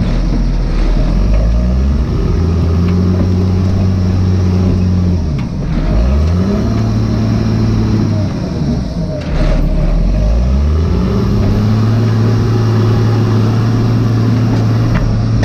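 Log skidder's diesel engine running under load, its revs dropping and climbing back several times in a low, steady drone.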